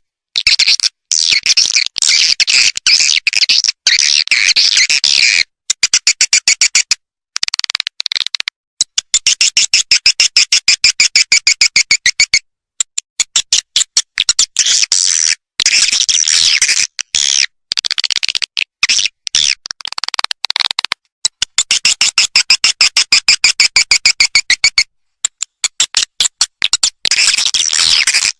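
Recorded swiftlet call sound, the lure call played through tweeter speakers to draw swiftlets into a bird house: fast, high chattering chirps in runs of a few seconds broken by short silences.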